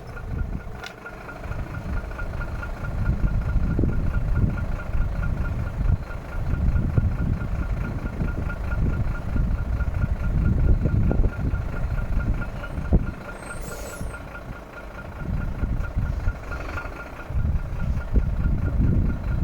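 Diesel engine of an IVECO AD260S45 truck running, its rumble rising and falling in level. A thin high-pitched tone pulses rapidly and evenly throughout.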